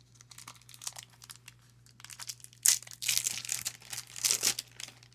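Crinkly card-pack wrapper and trading cards being handled, in several rustling bursts that are loudest in the second half.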